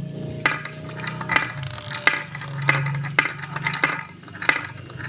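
Glass marbles clicking and clacking against each other and the marble run track as they roll down, in irregular sharp clicks, over a low steady hum.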